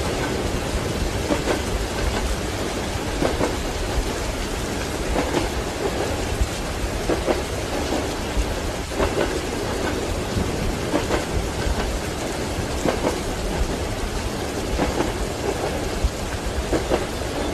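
Steady rain with low rolling thunder, and train wheels knocking over rail joints in a soft repeating beat about every two seconds.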